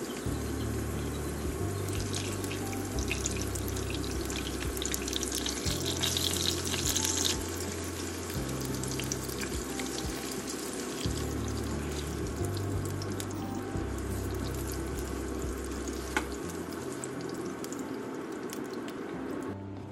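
Chicken cutlets sizzling and crackling as they shallow-fry in oil in a nonstick frying pan, the sizzle briefly louder about six to seven seconds in. Background music with a low bass line plays throughout, and a single sharp click comes about sixteen seconds in.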